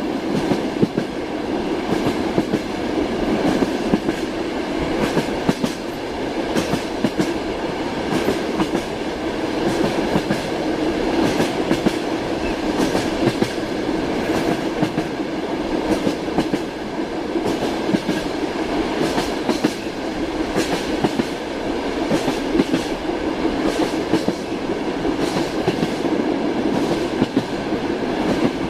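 Train running on the rails: the wheels give the repeated clickety-clack knock of passing over rail joints, over a steady rolling rumble.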